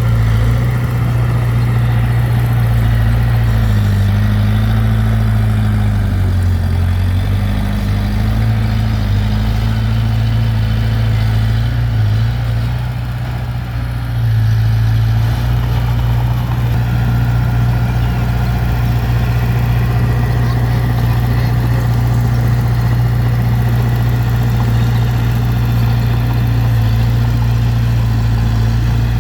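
Heavy diesel engine of construction machinery running steadily under varying load, its low drone shifting pitch a few times early on and easing briefly around the middle before picking up again.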